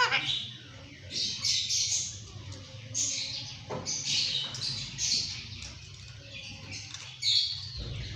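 Ringneck parrot giving a run of short, harsh high-pitched chirps and squawks, about one or two a second with brief gaps between.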